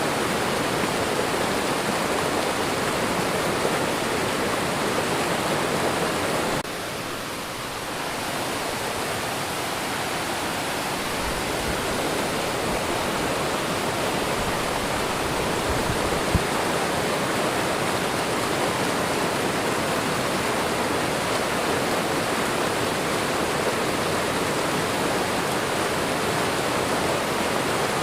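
Waterfall and running water: a steady, continuous rush. It dips slightly in loudness about seven seconds in and builds back over the next few seconds.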